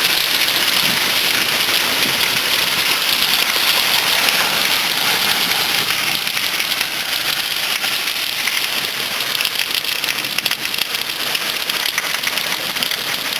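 Heavy rain pouring steadily onto hard surfaces, a dense hiss with fine crackle from the drops, easing slightly in the second half.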